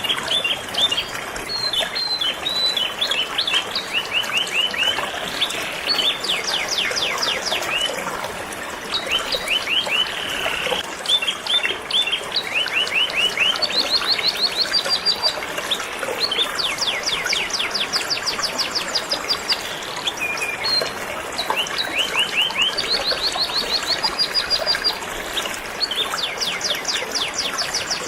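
Canary singing in long, fast trills of repeated chirps, one run after another, over the steady rush of flowing river water.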